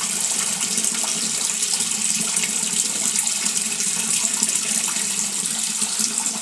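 Water pouring steadily into the tub of an Electrolux automatic washing machine as it fills to the raised water level.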